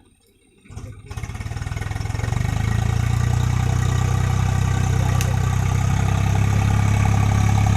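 Tractor's diesel engine starting: after a near-silent moment, slow firing pulses begin under a second in, pick up speed and level over about two seconds, and the engine then runs steadily.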